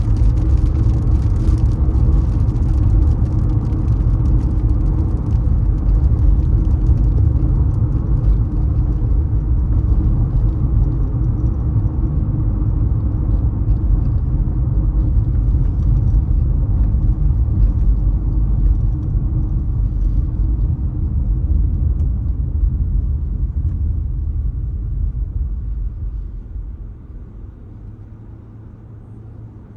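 Car driving, a steady low road and tyre rumble that dies down near the end.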